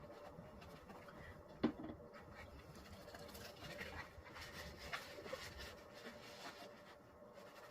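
Faint, irregular scraping of a hand tool spreading a coat of Henry Feather Finish cement over a laminate table top, with one sharp tap about one and a half seconds in.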